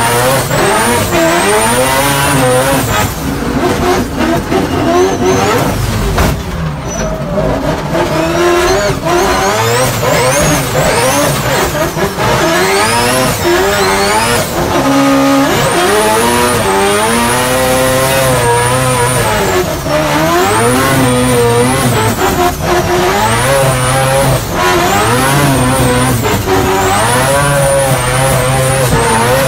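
Rotary engine of a drift car heard from inside the cabin, revving up and down again and again through a drift run, with tyre noise underneath.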